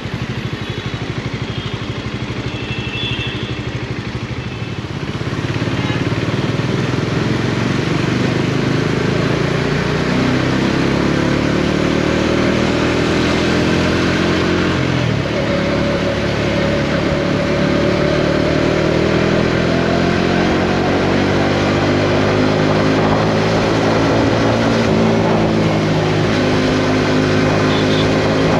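Bajaj Dominar 400's single-cylinder engine under way. It gets louder about five seconds in and its pitch climbs as it accelerates, drops sharply at a gear change around the middle, then climbs slowly again.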